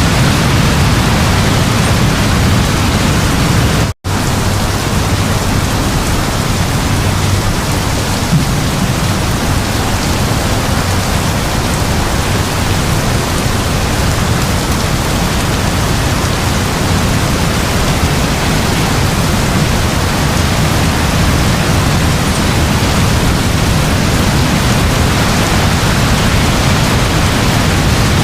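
Heavy rain falling in a steady, dense hiss, with a low rumble of distant thunder under it in the first few seconds. The sound cuts out for an instant about four seconds in.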